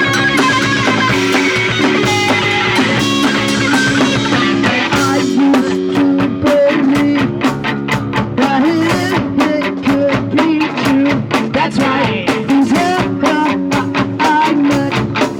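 Punk rock band playing live: electric guitar chords over a drum kit. The drumming turns fast and dense about a third of the way in.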